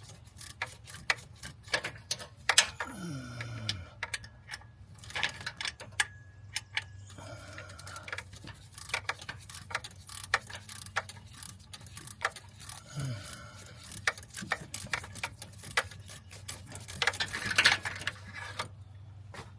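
Hand tools working in an engine bay: quick runs of ratchet-like clicking and metal clanks, with a couple of brief whirs that fall in pitch.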